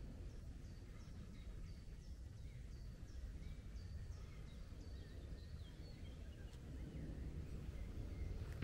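A small songbird singing, repeating a short high note about twice a second for the first five seconds or so, then fainter scattered calls, over a low steady rumble.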